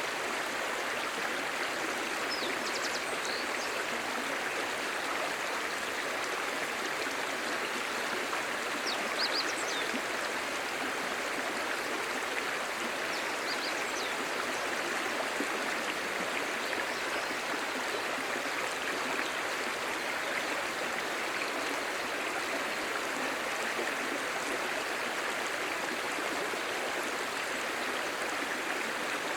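Clear stream babbling, a steady, even rush of running water.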